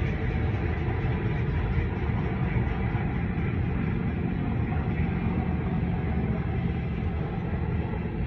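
Freight train of loaded covered hopper cars rolling steadily past: a continuous rumble of steel wheels on rail.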